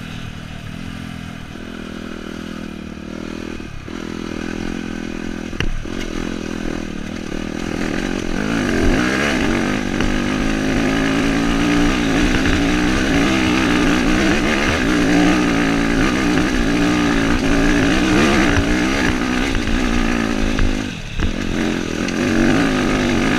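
Dirt bike engine running as the bike is ridden, its revs rising and falling with the throttle. It gets louder and revs higher from about 8 seconds in, with short drops in revs a few times, as at gear changes or a throttle lift.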